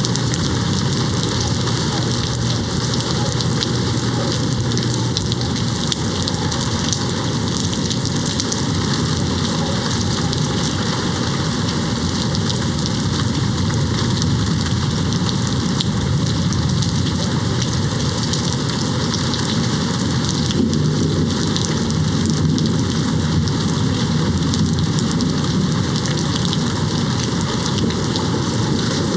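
Steady rain hitting a window, an even hiss of drops that does not let up.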